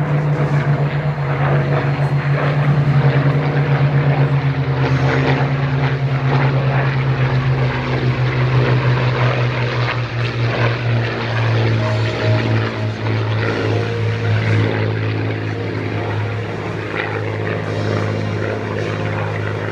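Engines of radio-controlled scale model Spitfire and Hurricane aircraft droning as they fly a pass, the low engine note dropping in pitch about halfway through as they go by.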